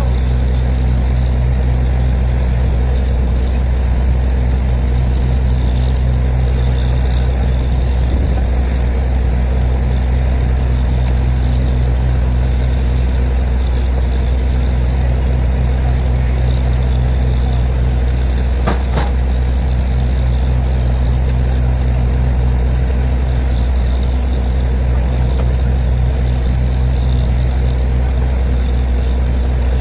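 Borewell drilling rig running steadily: a loud, even low engine drone, with a single sharp knock near the middle.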